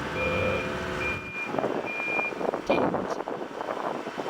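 Reversing alarm on a road-works vehicle, a single high beep repeating a little faster than once a second over the vehicle's running engine; the beeps stop a little over halfway through.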